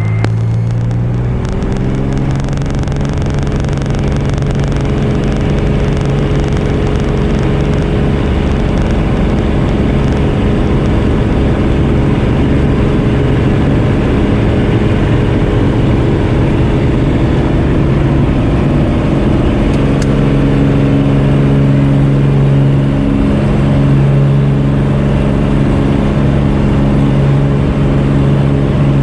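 Cessna 210K's six-cylinder piston engine and propeller running up to full power over the first couple of seconds, then running steadily at takeoff power.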